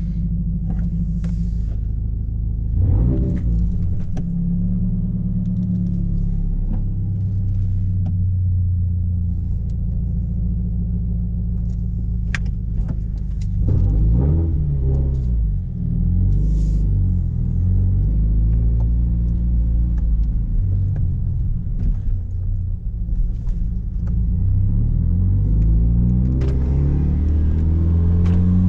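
Scion FR-S's 2.0-litre flat-four engine through a muffler- and resonator-deleted exhaust, heard from inside the cabin while driving: a deep steady drone, with the revs climbing and falling a few times, about three seconds in, around the middle, and near the end. A few brief sharp cracks stand out around the middle.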